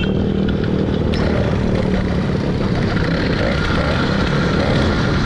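Small motorbike engine running steadily after being pedal-started.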